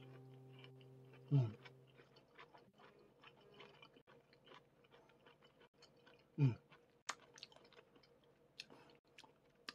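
A man chewing soft cooked zucchini, with faint wet mouth clicks throughout. Twice, about a second in and about six seconds in, he gives a short falling hum of approval.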